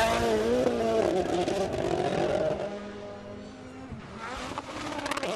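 A rally car's engine revving hard, its pitch rising and falling through gear changes as it passes, then fading away after about two and a half seconds. Engine revving builds again near the end.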